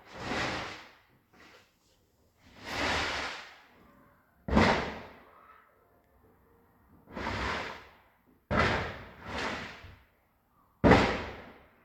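Fireworks exploding nearby: about seven separate bursts, the sharpest bangs coming about four and a half, eight and a half and eleven seconds in, each fading away over a second or so.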